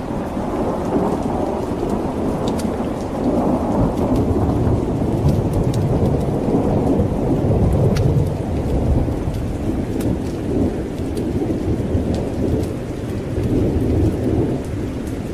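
Thunderstorm: steady heavy rain under long rolling thunder that swells in the middle and eases off near the end, with scattered faint sharp ticks over it.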